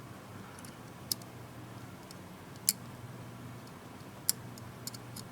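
A few sharp, light clicks of small parts and a tool being handled inside an opened Samsung Galaxy Tab 3 tablet as its cables are moved aside, over a faint steady hum. The clicks fall irregularly, about a second in, near the middle, and a quick pair near the end.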